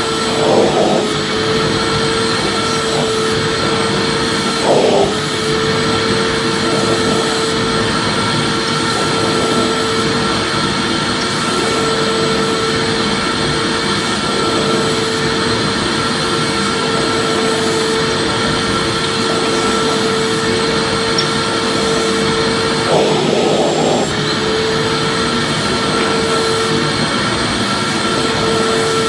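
Vacuum cleaner running steadily: a constant rushing noise with a steady mid-pitched hum and a faint high whine.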